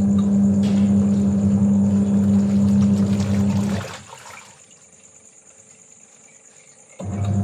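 Washing machine pump humming while water runs, stopping after almost four seconds and starting up again near the end, as the machine cycles water. Insects chirr steadily underneath.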